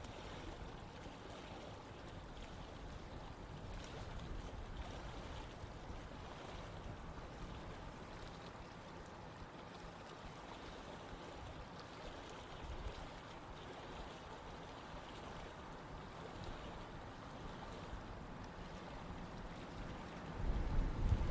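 Running water of a stream or river flowing steadily. Near the end a louder low rumble comes in.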